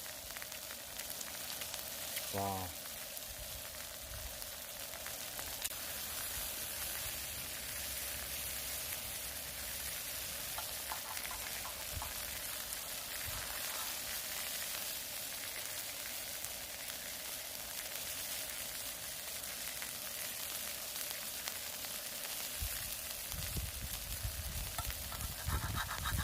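Beef sirloin sizzling on a hot griddle, a steady frying hiss. A few dull low knocks come near the end.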